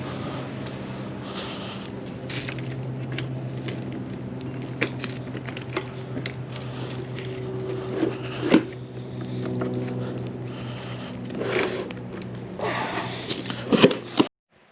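Scattered clicks, knocks and rustling as parts are handled, over a steady low hum; the sound cuts off abruptly near the end.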